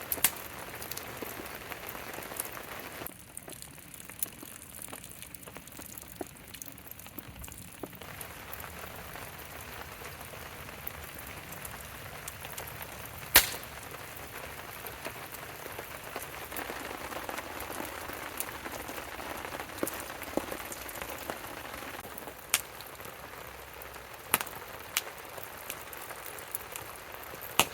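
Steady rain pattering, with scattered sharper drop taps and one sharp click about halfway through.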